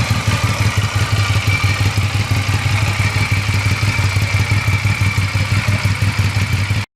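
Motorcycle engine idling steadily at close range, a fast even pulse with no revving, cut off suddenly near the end.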